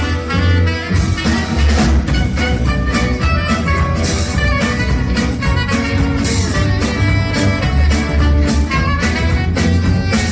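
A band playing an up-tempo ragtime tune, with a steady bass line and a regular beat.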